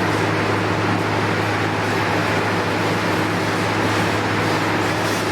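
Steady, loud machinery hum with an even rushing noise over it, unchanging throughout.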